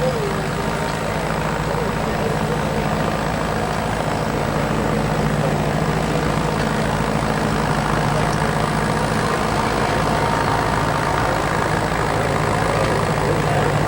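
Antique tractor engine running steadily, with a low, even drone.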